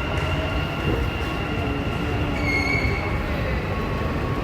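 Dubai Metro train running: a steady low rumble with thin high tones over it, and a brief high squeal about two and a half seconds in.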